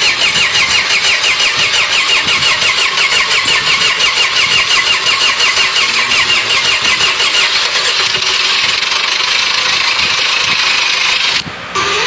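An engine cranking on its starter motor with an even beat of about four pulses a second, then catching at about eight seconds in and running steadily. The sound cuts off abruptly near the end.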